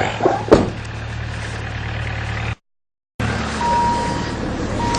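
Just-cold-started 3-litre Mitsubishi petrol engine idling steadily, with a few sharp knocks in the first half-second. The sound cuts out for about half a second, then an engine runs again with a steady high beep coming on and off.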